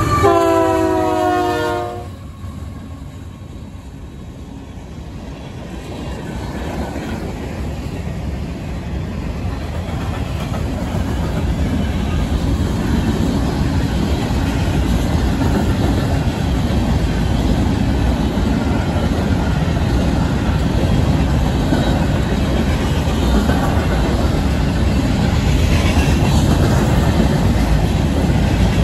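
Union Pacific 7278's air horn blowing as the locomotive passes, its chord sliding down in pitch and cutting off about two seconds in. Then a long string of covered hopper cars rolls by, a steady rumble and wheel clatter that slowly grows louder.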